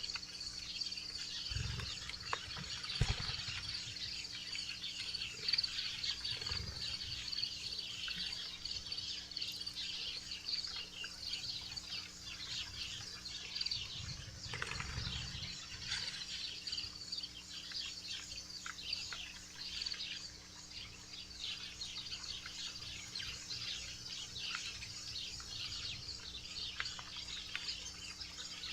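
Many small wild birds chirping at a backyard feeder, with dense overlapping short chirps throughout. A few dull low thumps are heard near the start and about halfway through.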